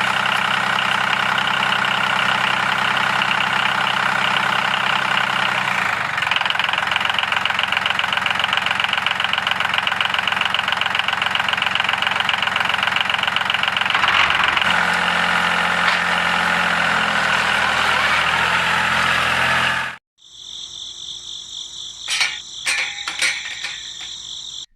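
A small motor runs steadily with a fast, even buzz, shifting slightly in pitch a couple of times. It cuts off suddenly about 20 seconds in, and quieter high steady tones with a few clicks follow.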